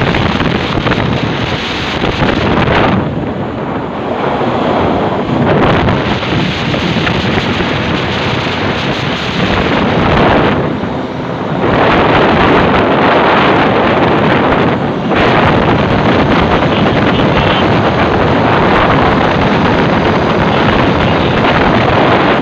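Loud wind buffeting on the microphone: a dense, steady rush of noise that drops back briefly three times.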